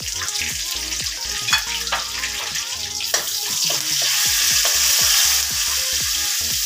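Curry leaves and green chilies sizzling in hot oil with cumin seeds in a kadhai, stirred with a spoon, with a few sharp clicks of the spoon against the pan. The sizzling grows louder a little past halfway through.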